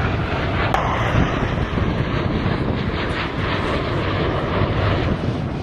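Airplane engine noise from an aircraft in flight: a loud, steady rushing roar with no break.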